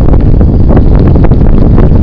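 Heavy wind buffeting on the microphone while riding a bicycle, a loud steady rumble with frequent irregular clicks and rattles.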